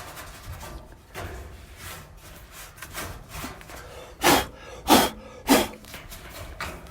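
A rag rubbing and wiping inside a dryer's cabinet, with soft scraping strokes and then three loud, quick swipes about half a second apart a little past the middle.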